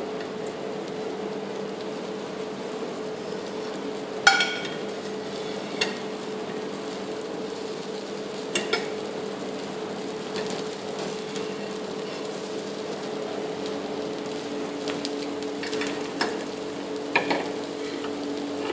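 Dosa frying in oil on a nonstick pan over a gas burner: a steady sizzle, with about five short sharp clinks of metal utensils spread through it.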